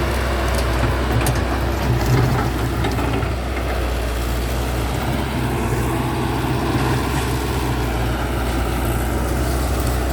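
Caterpillar 312D excavator's diesel engine running steadily as the machine works, with a few sharp cracks in the first three seconds and a faint rising-and-falling whine near the middle.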